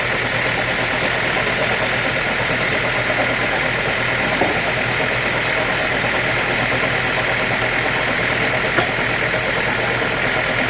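Sawmill machinery running with a steady, even mechanical drone and a couple of faint clicks.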